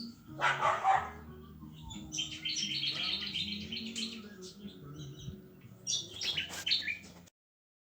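A dog barks once about half a second in, and birds chirp and call through the rest, until the sound cuts off near the end.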